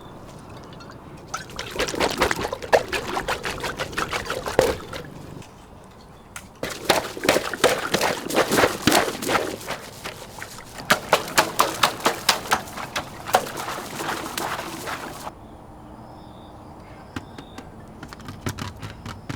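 Water pouring and splashing in three bursts of a few seconds each, with a dense crackle of drops.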